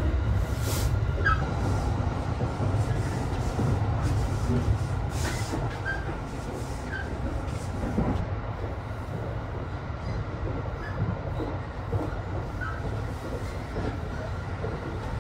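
Running noise inside a moving Cassiopeia sleeper train coach: a steady low rumble of wheels on the rails, with a faint steady high tone and a few short knocks.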